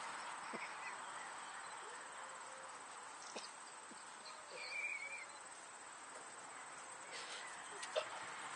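Quiet outdoor ambience with a steady faint hiss and a few small clicks. About halfway through there is one short warbling bird chirp.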